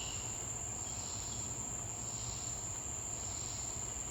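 Crickets trilling in one steady, unbroken high-pitched tone, with faint swells of lower insect or bird sound coming and going underneath.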